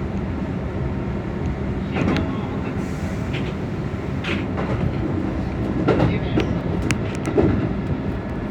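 Keihan limited express electric train running, heard from the driver's cab: a steady low rumble with irregular sharp clicks and knocks from the wheels on the track.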